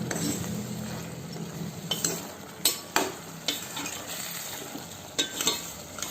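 Chicken pieces frying and sizzling in a pan of masala paste while a spoon stirs them, with several sharp scrapes and clinks of the spoon against the pan in the second half.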